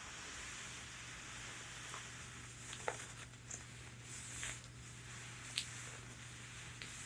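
Long fingernails scratching over the fabric of a corset, with a few sharp nail taps, the clearest about three seconds and five and a half seconds in.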